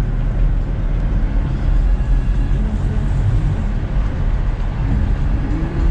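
Car engine and road noise inside the cabin while driving: a steady low rumble.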